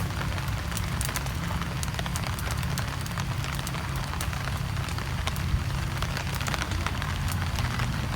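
Steady rain with a campfire burning: an even hiss over a low rumble, dotted with many quick sharp crackles and drips.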